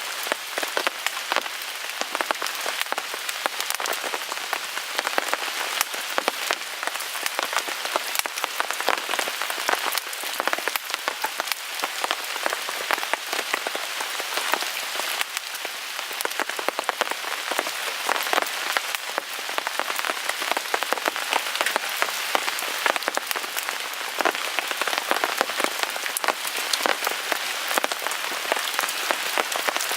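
Steady rain on a tarp overhead, dense with small sharp ticks of drops, over a wood fire burning in a Picogrill 398 fire grill.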